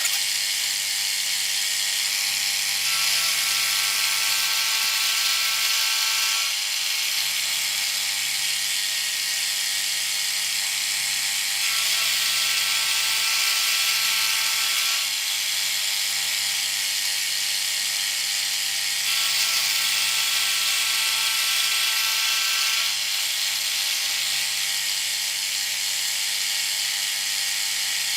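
Bridgeport milling machine running, its milling cutter taking light cuts along the edge of a steel block. A steady whine with a hissing top comes in three times for a few seconds each, as the cutter goes into the work.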